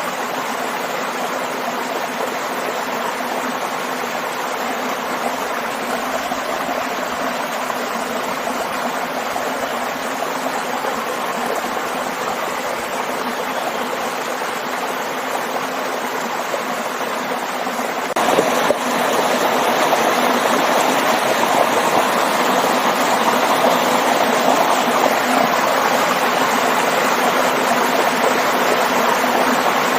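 Waterfall and stream water rushing steadily. About 18 seconds in there is a brief jolt, after which the water is louder and fuller.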